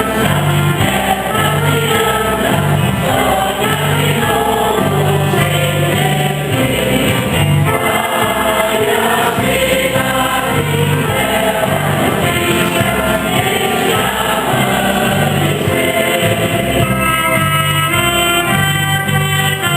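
Church choir singing a song of the Mass.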